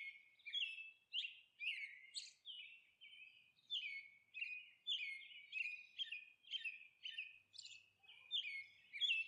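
A small bird chirping over and over: short, high chirps of two to four quick notes, about two a second, with a brief pause about three seconds in.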